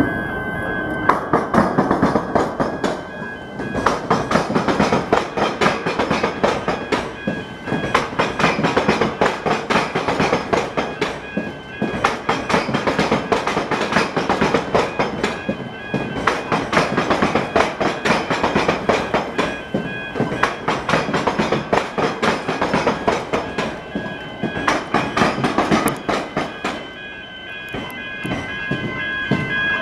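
Passenger train rolling over the tram square's rail crossing, its wheels clattering over the diamond in a long run of rapid clicks, with a steady high tone under it at the start and again near the end.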